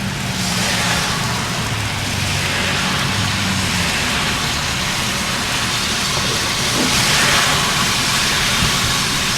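Car driving on a snow- and hail-covered road: steady engine hum under tyre hiss. The hiss swells about a second in and again around seven seconds in.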